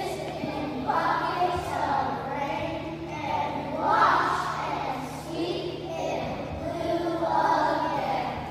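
A group of young children singing together in unison, in a hall.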